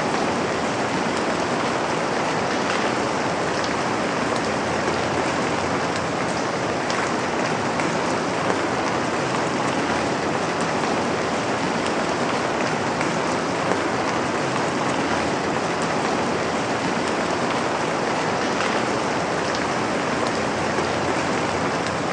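Steady rain falling on a surface, an even hiss of many drops with faint individual drop ticks throughout.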